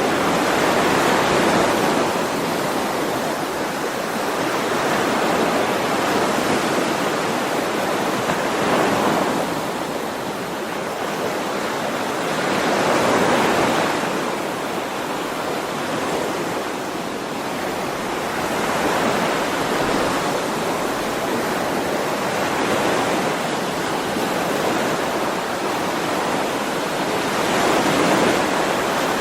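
Ocean waves breaking and washing on a shore, each wave swelling and fading again every four to five seconds.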